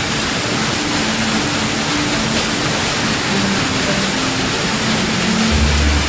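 Steady rush of water, even and hissing, with soft background music notes underneath; a deep bass note comes in near the end.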